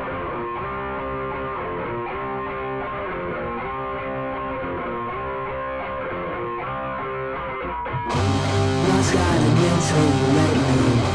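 Rock song intro: a repeating guitar riff with a muffled, dulled sound, then about eight seconds in the full band comes in, clearly louder, with bass and drums.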